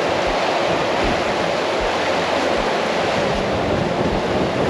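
Strong wind blowing across the microphone together with the rush of surf on the beach, a steady loud roar with low thumps about once a second.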